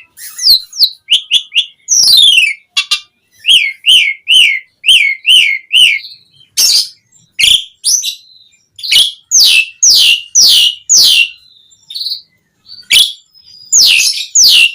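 Asian pied starling in full song, a loud, varied string of whistled notes. About four seconds in comes a run of about seven quick, repeated falling notes, followed by sharp whistles that slide steeply downward.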